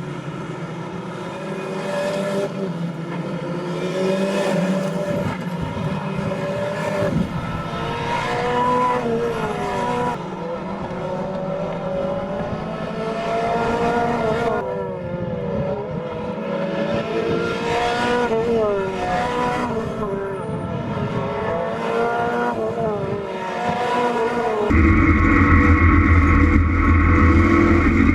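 Renault Clio Cup race car engines revving on track, their pitch climbing and dropping again and again through gear changes. About 25 s in, the sound cuts to a louder, deeper, steadier engine.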